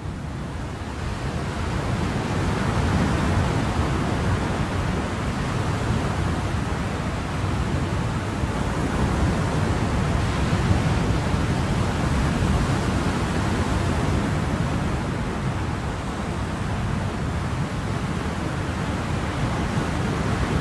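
Ocean surf: a continuous wash of waves with a deep rumble and gentle swells, fading up over the first two seconds and then holding steady.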